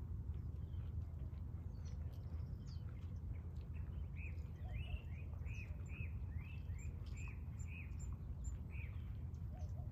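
Steady low outdoor background noise with a small bird chirping: a run of about ten short chirps, roughly two a second, starting about four seconds in, with a few fainter, higher peeps.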